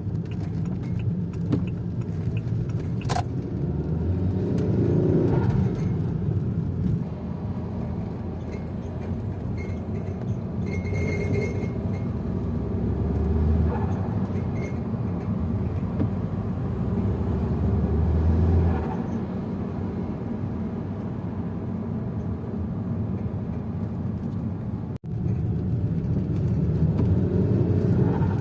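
Saab 9-5 2.0t turbocharged four-cylinder with an open air filter and hybrid dump valve, driving in city traffic: a steady low engine rumble that swells louder three times as it accelerates and drops back as the throttle is lifted, the point where its turbo flutter comes through.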